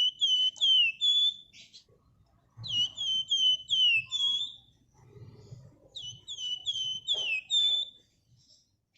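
Flamboyan bird (wergan Jawa) singing: three quick phrases of repeated high, down-slurred whistled notes, each about two seconds long with short pauses between.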